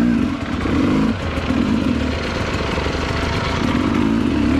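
Two-stroke dirt bike engine running near idle, its pitch rising and falling slightly.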